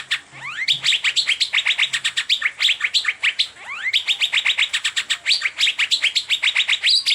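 Asian fairy-bluebird (cucak biru) singing a fast, chattering 'teler' run of short, sharp high notes, broken now and then by a rising slurred whistle.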